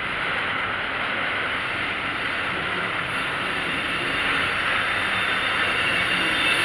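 Railroad tank cars of a freight oil train rolling past: a steady rushing noise of steel wheels on rail that slowly grows louder, with a faint high wheel squeal creeping in during the second half.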